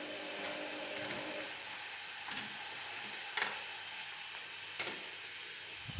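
Chicken pieces and diced onion sizzling as they fry in a pot, with a few short knocks as they are stirred. A low hum stops about a second and a half in.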